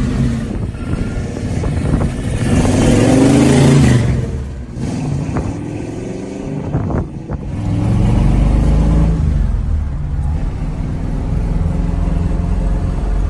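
V8 engine of a 1967 Ford Mustang fastback built as the 'Eleanor' GT500 running loudly, its pitch rising as it is revved about two seconds in and again around eight seconds.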